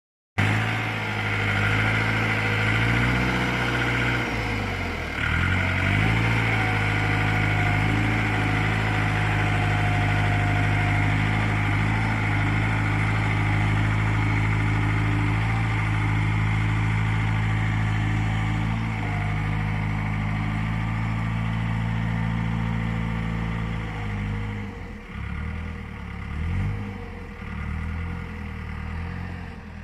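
Engine of a BCS Valiant 600 RS compact tractor running steadily, its pitch shifting around four to five seconds in. About 24 seconds in it drops back to a lower, less even run.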